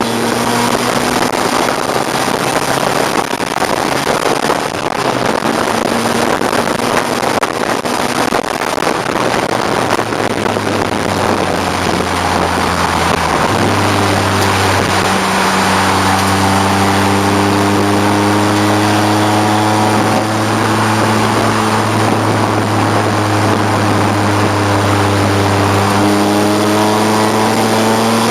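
A 1989 BMW 535i's 3.4-litre straight-six racing engine running hard at speed over heavy wind and road noise. The engine note holds fairly steady, shifts pitch about halfway through, and steps up again near the end.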